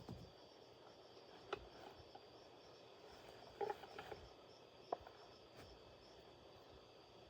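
Near silence, broken by a few faint, short clicks and knocks: one just after the start, one about a second and a half in, a small cluster around four seconds in and a single sharp tick near five seconds.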